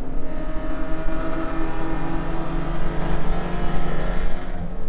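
Holden VK Commodore's 308 V8 engine running under load, heard from inside the car's cabin, with a fairly steady pitch.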